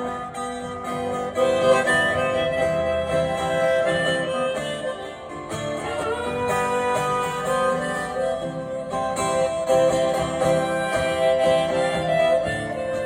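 Live acoustic guitar strumming a slow country-folk ballad, with a harmonica playing long held notes of the melody over it in an instrumental break between sung verses.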